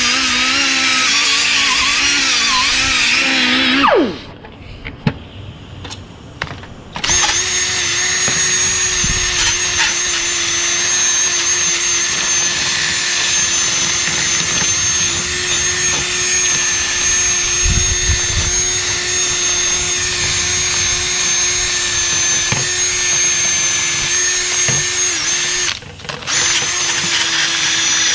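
Handheld electric power tool running under load. Its motor spins down about four seconds in, starts again about three seconds later and runs steadily, with a brief cut-out near the end.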